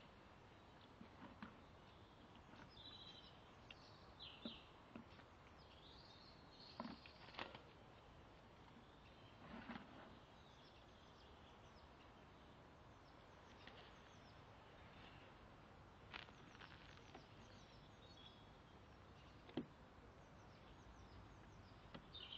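Faint outdoor ambience with occasional distant bird chirps and a few soft knocks and rustles.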